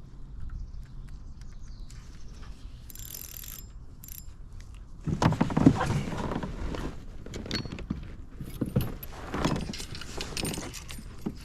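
Irregular rattling and clattering of small hard objects, starting about five seconds in, with a short high hiss a couple of seconds earlier.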